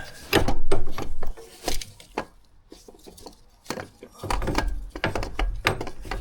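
Irregular knocks, clunks and scraping of a replacement starter motor being handled and worked up into its mounting under the car.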